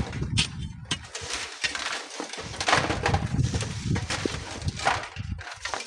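Strong wind buffeting the microphone in irregular gusts, with a low rumble and several hissing swells.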